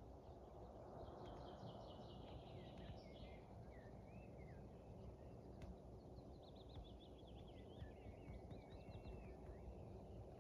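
Faint songbird singing: a rapid trilled phrase about a second in and another about six seconds in, each with a few short whistled glides, over a soft steady background hiss.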